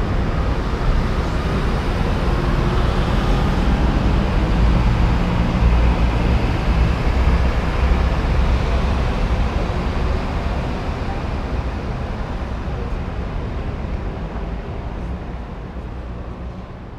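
City street traffic: vehicle engines and tyres rumbling past. The sound swells in the middle and then dies away toward the end.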